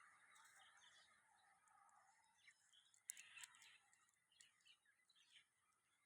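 Faint, scattered bird chirps, a handful of short calls with the clearest cluster about three seconds in, over a faint steady background hiss.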